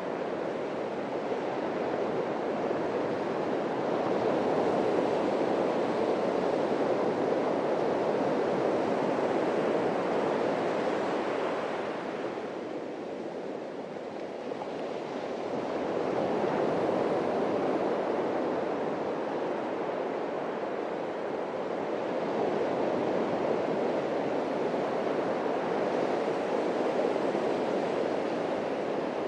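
Atlantic surf washing onto the beach in a continuous rushing wash that swells and eases every several seconds, dipping briefly about halfway through.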